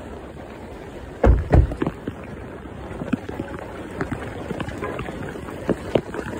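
Heavy rain and wind, muffled, with two loud thumps a little over a second in and scattered sharp taps after, like the phone's bag being jostled.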